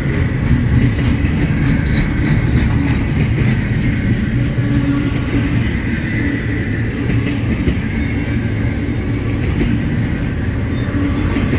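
Double-stack intermodal container cars rolling past close by: a steady low rumble of steel wheels on rail, with scattered light clicks as the wheels pass over the rail joints.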